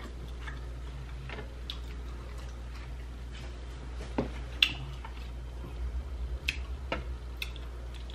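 Soft, scattered mouth clicks and smacks of someone chewing sushi, over a low steady hum.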